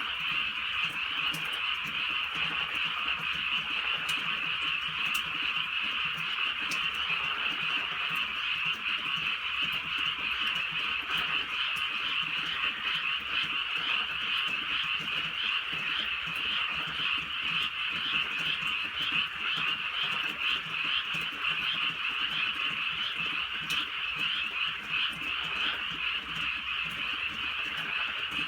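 A dense chorus of many frogs calling continuously at night, merging into one steady croaking din.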